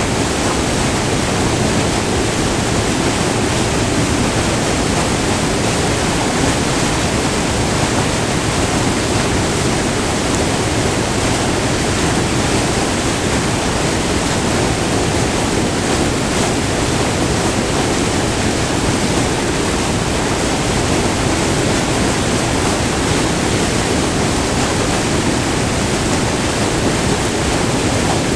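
Close-up rush of white water pouring over a short, multi-tiered river waterfall, a steady full roar with no letup.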